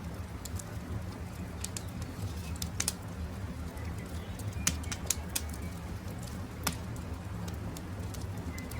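Campfire crackling: irregular sharp pops and snaps of burning wood over a steady low rush from the fire, with a few faint bird calls.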